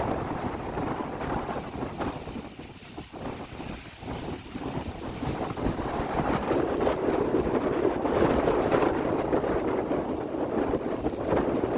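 Wind buffeting the microphone in uneven gusts, easing a few seconds in and building up again after.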